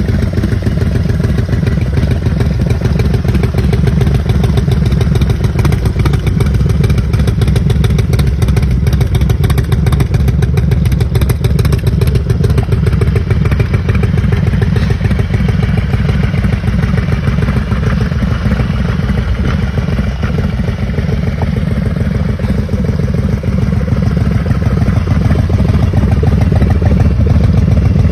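Big Dog Pro Sport's 129 cubic inch V-twin motorcycle engine running steadily and loud.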